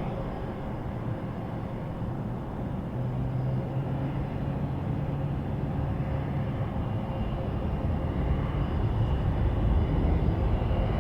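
Jet airliner engines: a steady rumble with a thin whine over it, growing gradually louder over the last few seconds.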